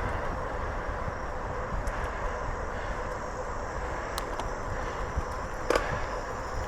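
Riding noise from a bicycle rolling on a paved trail: a steady rumble of tyres and wind on the microphone, with a sharp click a little before the end.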